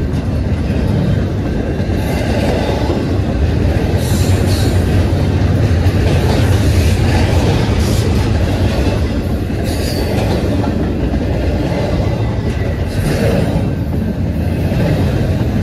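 Mixed freight train rolling past: a steady rumble of steel wheels on rail, with a few brief high wheel squeals along the way.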